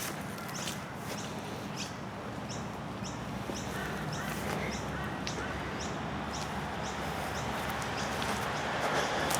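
A bird repeating a short high call, about one and a half calls a second, over a steady outdoor background.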